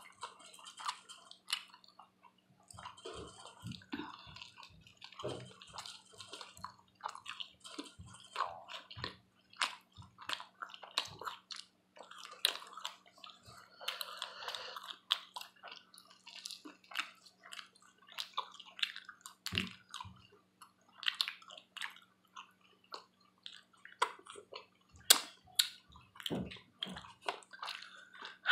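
Chewing and wet mouth sounds of someone eating buffalo wings: soft irregular smacks and clicks throughout, over a faint steady hum.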